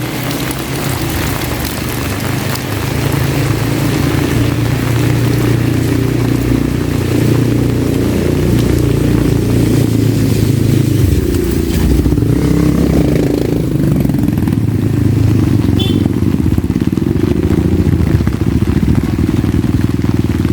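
Motorcycle engine running steadily, growing louder over the first few seconds, its pitch changing about halfway through, with rain hissing behind it.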